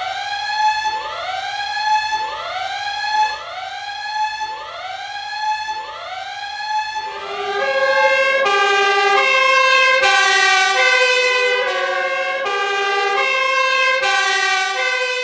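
Emergency vehicle sirens. A siren sweeps up in pitch about once a second until about seven seconds in. Then the sound changes to held tones that step between pitches every half second or so, with more than one siren sounding at once.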